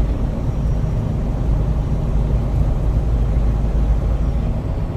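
Truck engine and road noise while driving, a steady low rumble.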